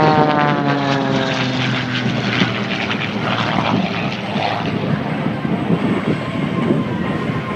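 Edge 540 aerobatic plane's 400-horsepower engine and propeller in flight, its pitch falling over the first two seconds or so, then a steady drone.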